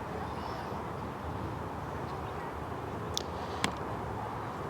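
Steady outdoor background noise, a low even rumble with no distinct engine tone, with two faint clicks about three seconds in.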